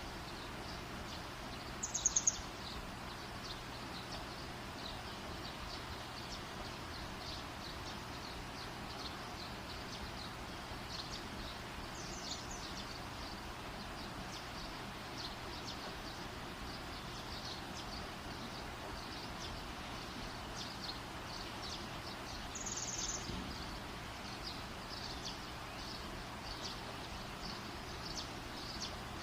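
Campfire burning with a steady hiss and a stream of small, quick crackles. Two brief, louder high-pitched sounds come about two seconds in and again a little past twenty-two seconds.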